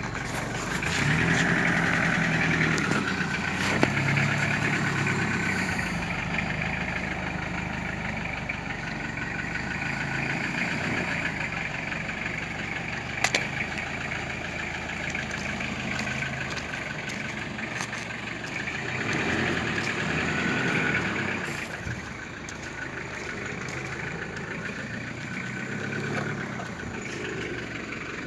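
An engine running steadily at idle, its low hum shifting slightly in pitch now and then, with a few brief clicks.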